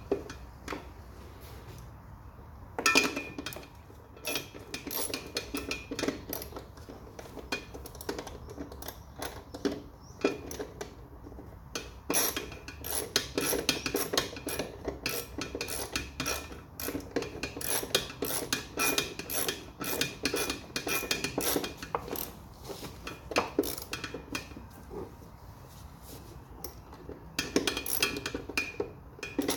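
Metal hand tools clinking and clattering against each other and against metal, in irregular runs of sharp clinks with a slight ring, the kind of sound made by sorting through sockets and spanners and working them on a bolt. The clatter is busiest in the middle, and there is another spell near the end.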